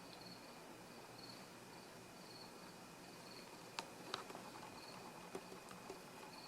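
Near silence: quiet room tone with a faint high chirp repeating about twice a second, like a cricket, and a few soft clicks in the second half.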